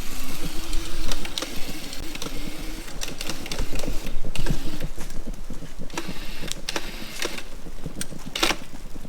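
Razor MX350 electric dirt bike's electric motor whining as it rides, the whine wavering and fading after about three seconds and returning briefly around the middle, with frequent clicks and rattles as the bike bounces over bumpy ground.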